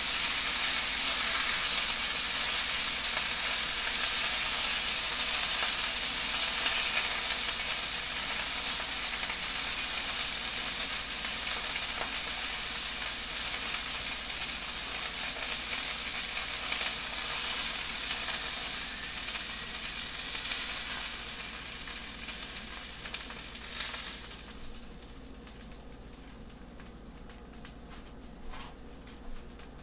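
Flour-coated chicken tenders frying in hot oil in a cast iron skillet, a steady sizzle. It eases off as the pieces are lifted out, then drops sharply to a faint sizzle about 24 seconds in.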